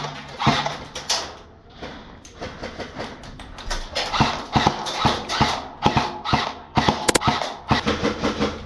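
Irregular sharp knocks and clicks, a few a second, with one sharp crack about seven seconds in.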